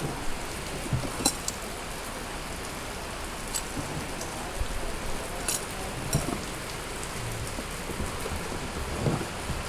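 Steady rain falling, an even hiss throughout, with a few light clicks about one, three and a half and five and a half seconds in.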